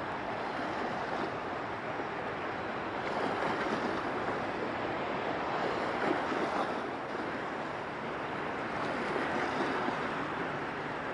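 Waves washing with some wind, a steady hiss of water that swells louder a few seconds in and again near the end.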